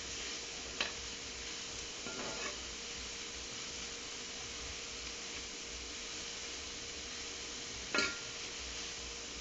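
Chopped spinach sizzling steadily in a frying pan as it wilts, with a utensil clicking against the pan about a second in, a brief stirring scrape at about two seconds, and a sharper knock on the pan near the end.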